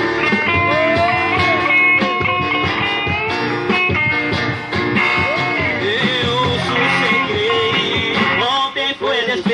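Live band music between sung verses: a lead melody with bending notes over guitar and drums.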